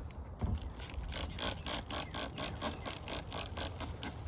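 Quick rhythmic scraping, about six strokes a second, as the baking soda and vinegar volcano mixture is stirred in its container; it starts about half a second in.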